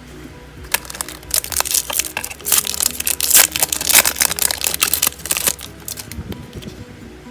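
Plastic card packaging crinkling and crackling as it is torn and handled open, a dense run of sharp crackles that is heaviest through the middle and thins out near the end. Background music plays underneath.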